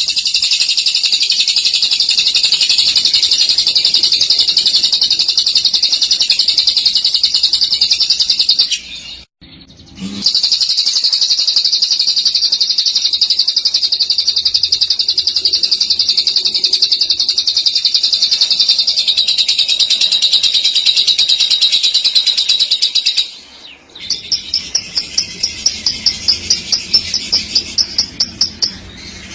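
Lovebird giving long, rapid 'ngekek' chattering trills, high-pitched and unbroken: one of about nine seconds, then after a brief pause another of about thirteen. Near the end it switches to a run of separate sharp chirps, about three or four a second.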